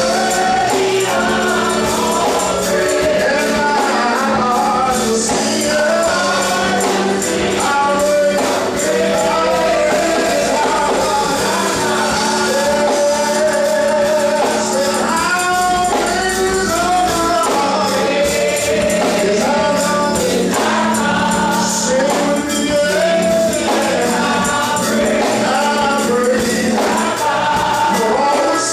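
Gospel choir singing with a band and a steady tambourine beat over a held bass note.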